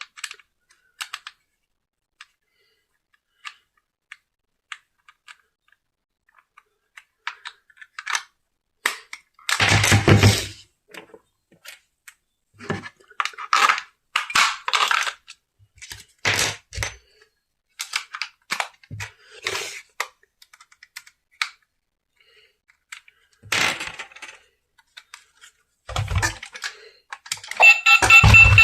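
Intermittent handling noises: scattered clicks and taps with several short bursts of rustling, as a toy and its plastic packaging are handled. Music comes in near the end.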